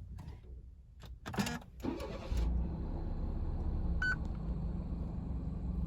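Suzuki Palette's three-cylinder engine being started: a few seconds of clatter and cranking, then it catches about two and a half seconds in and settles into a steady idle. A short high beep sounds about four seconds in.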